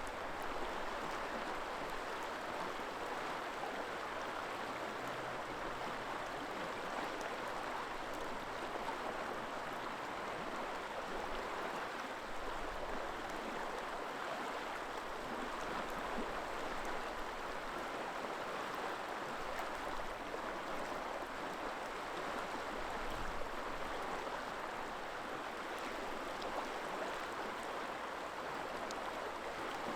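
River water rushing steadily over rocks: an even, unbroken flow.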